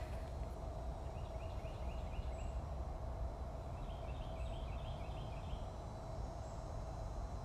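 Steady low background noise with a faint steady hum, broken twice by a short run of quick, repeated high chirping notes from a bird, about a second in and again about four seconds in.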